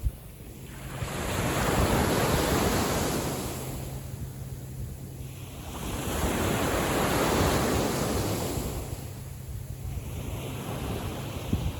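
Gentle sea waves washing onto a beach, the surge swelling and fading about every five seconds.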